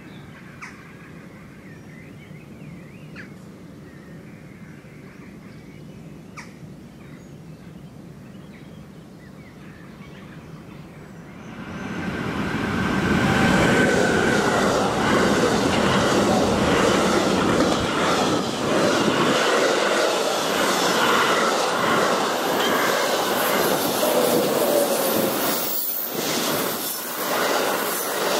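A faint, steady outdoor background, then about eleven seconds in a container freight train hauled by an electric locomotive comes up and passes at speed close by: a loud rush of wheels on rail with rattling wagons and a run of clicks as the wheels cross the rail joints. Near the end an ICE high-speed train is also passing on the other track.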